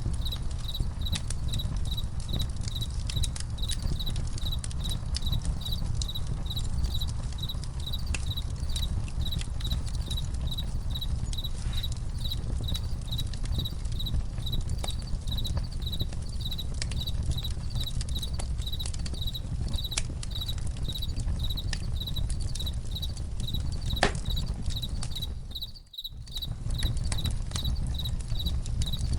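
Campfire crackling, with sharp pops over a low rumble, while crickets chirp in a steady pulse about three times a second. The whole sound drops out briefly near the end.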